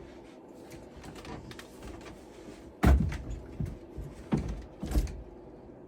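A few knocks and thumps, the loudest about three seconds in and three more over the next two seconds, over a steady low hum.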